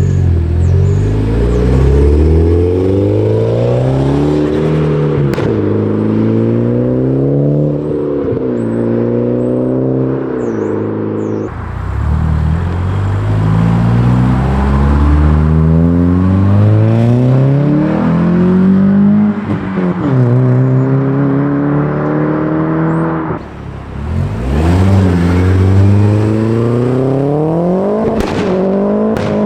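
Car engines accelerating, the engine note rising and dropping back several times as the cars change up through the gears. The sound changes abruptly twice, as if it were three separate cars pulling away.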